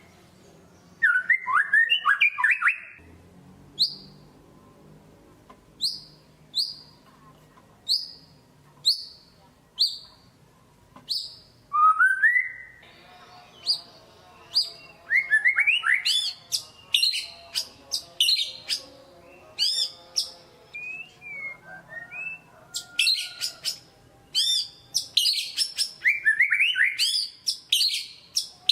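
White-rumped shama (murai batu) singing: a run of short, sharp falling whistles about one a second, then a fast, varied stream of whistled and chattering phrases in the second half.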